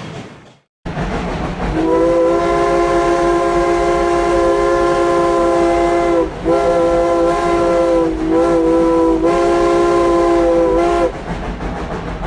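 Steam locomotive's chime whistle blowing a long chord of several tones, broken into four blasts: long, long, short, long, the pattern of a grade-crossing signal. The train rumbles and clatters underneath.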